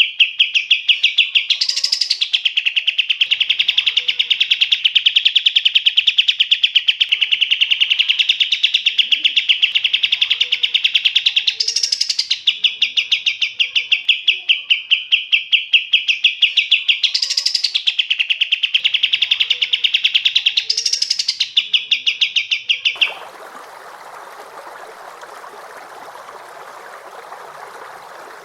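Recorded songbird song: a long, unbroken, rapid rattling trill held at a steady pitch, with a few brief higher notes breaking through. About 23 seconds in it cuts off suddenly, leaving only a steady hiss.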